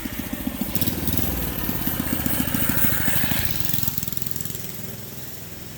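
Small single-cylinder gasoline engine running fast with a rapid, even putter. It grows louder, then fades about halfway through as the machine moves away.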